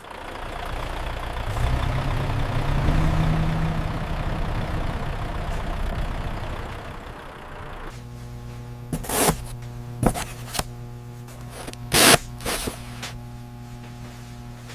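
Machinery running: a rough rumbling noise for about eight seconds, then a steady hum with several sharp clanks.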